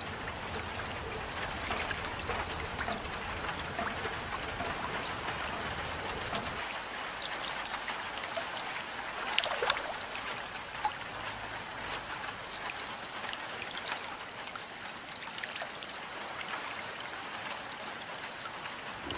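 Steady rain with water trickling and dripping, individual drops ticking here and there and one louder splash about halfway through. A low rumble underneath fades out about a third of the way in.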